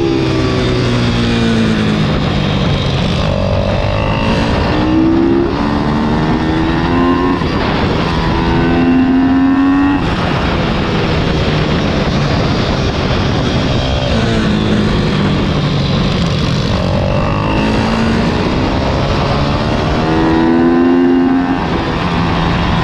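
Single-cylinder four-stroke pit bike engine (IMR YX160) under hard riding, its pitch repeatedly rising as the throttle opens and dropping as it comes off, over a steady rush of wind noise.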